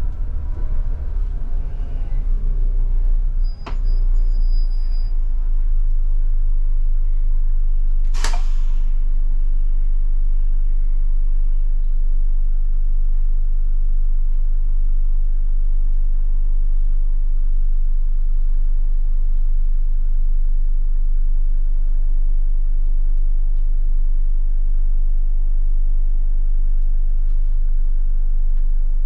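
Scania K250IB bus's diesel engine running down over the first few seconds, then idling steadily, with a click at about three and a half seconds. A single short, sharp air hiss comes about eight seconds in.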